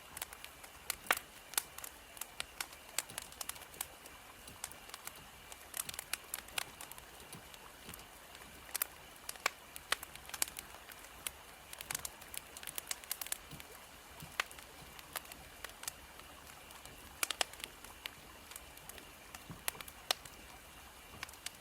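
Wood fire crackling, with irregular sharp pops and snaps several times a second over a faint steady hiss.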